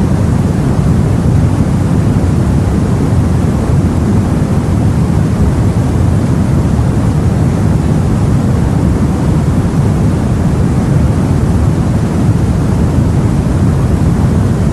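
Steady, low rumbling wash of sea and wind heard from a boat, even throughout with no separate wave breaks or knocks.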